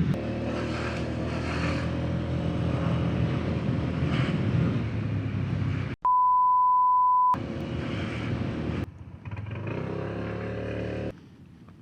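Small motorcycle engine running steadily while riding, with a steady high-pitched beep lasting over a second that replaces all other sound partway through. The engine sound drops away near the end.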